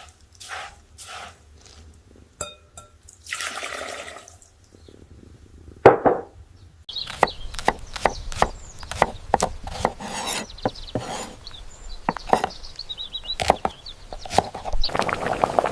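Knife chopping vegetables on a wooden cutting board. A few slow, evenly spaced cuts come first, with a short watery hiss in between. About seven seconds in, the cuts become a fast, irregular run.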